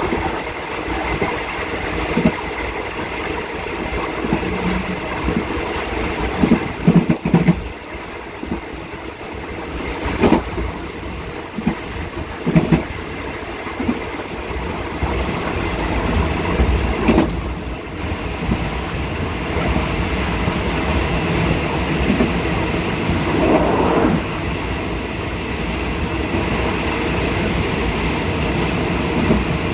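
Passenger train running along the line, heard from its rear carriage: a steady rumble of wheels on rail, broken by irregular clacks and knocks, with a few louder clusters of clanks along the way.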